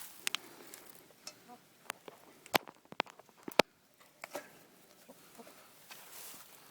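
Hens clucking softly in a chicken coop, broken by several sharp clicks and knocks.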